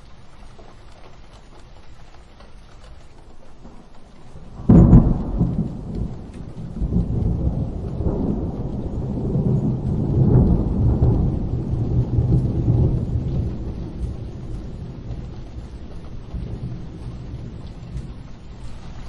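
Steady rain with a sharp thunderclap about five seconds in, followed by a long low rolling rumble of thunder that swells again a few seconds later and slowly dies away.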